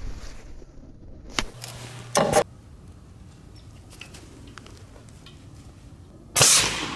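Potato cannon shots: a sharp crack about a second and a half in, a louder short blast a moment later, and the loudest blast near the end, fading off.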